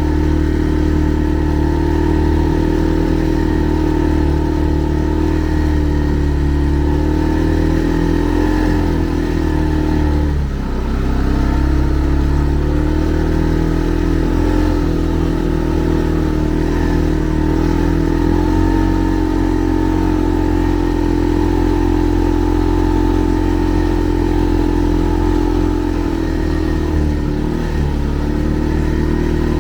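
Segway Snarler 570 ATV engine running steadily under way, with a brief drop in revs about ten seconds in before it picks back up.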